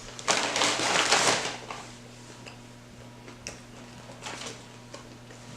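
Paper food packaging crinkling and rustling for about a second and a half, then a few faint taps and clicks as the leftovers are handled.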